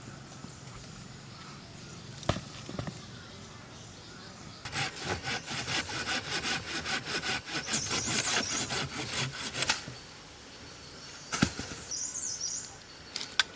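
Rhythmic back-and-forth scraping strokes, several a second, in a run of about five seconds through the middle. A few more strokes come near the end, and there are single sharp clicks before and after the run.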